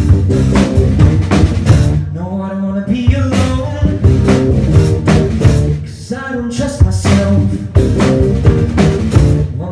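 Live rock band playing, with a drum kit keeping the beat under guitar and bass. A wavering melodic line rises over it twice.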